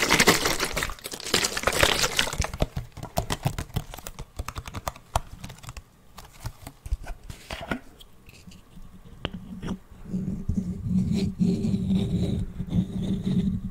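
Fast ASMR tapping: a dense run of quick taps that thins to scattered single taps, then about ten seconds in gives way to a steadier, lower sound.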